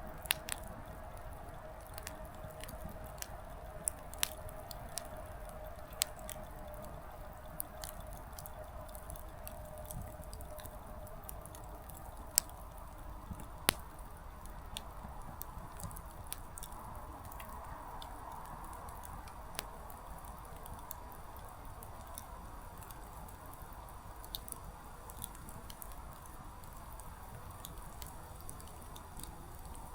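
Small wood fire burning quietly: firewood crackling with scattered, irregular sharp pops, a few of them much louder, over a faint steady hiss.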